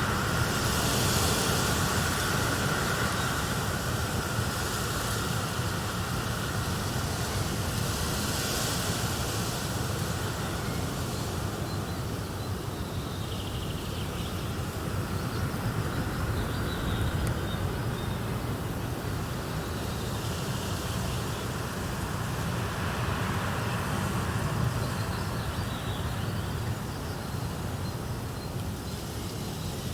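A fire burning in a fireplace, a steady dense crackle and rumble, mixed with outdoor nature ambience.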